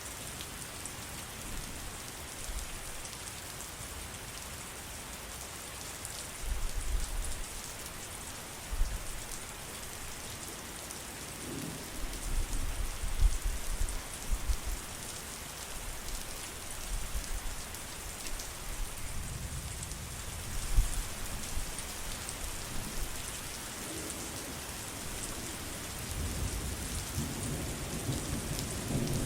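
Steady heavy rain hissing, with low thunder rumbling in and out several times.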